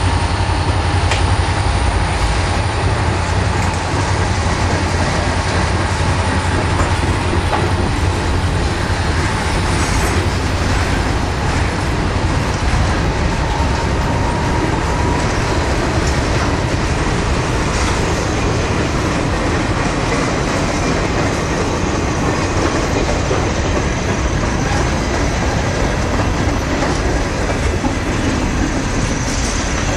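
Reading & Northern train rolling past, its wheels clacking over the rail joints above a steady low rumble.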